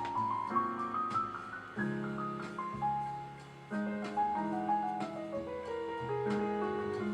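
Background piano music: a run of single notes climbing upward, then a falling phrase over held low notes.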